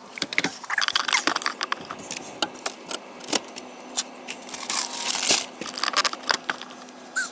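A busy run of clicks, knocks and rattles with rustling from things being handled and moved, over a faint steady low hum.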